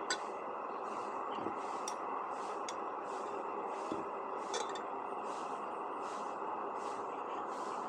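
Optimus 99 petrol stove burning with a steady rushing hiss under the pot, with a fainter high hiss pulsing about twice a second and a few light clicks.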